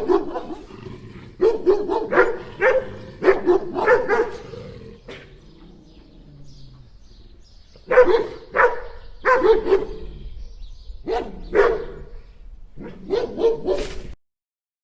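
A dog barking in quick runs of short, sharp barks, with a quieter pause in the middle; the sound cuts off abruptly near the end.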